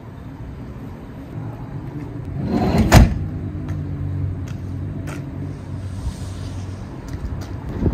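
Vehicle engine running with a steady low hum. About three seconds in, a short rising scrape ends in one loud thump, followed later by a few light clicks.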